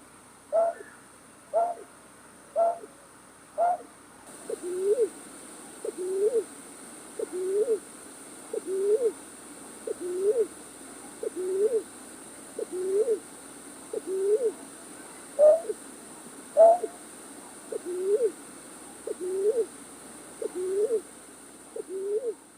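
Recorded night-bird calls played as a trapping lure: short notes repeated about once a second, higher and sharper for the first few seconds, then lower hooked notes, with a steady hiss underneath.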